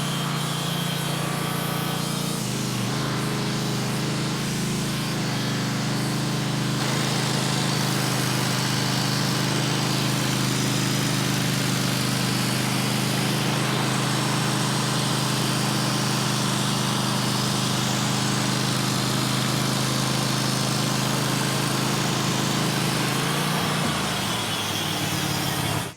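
Sawmill engine running steadily under load as the band blade cuts a slab from a black walnut log, with a steady low engine tone and a continuous cutting hiss.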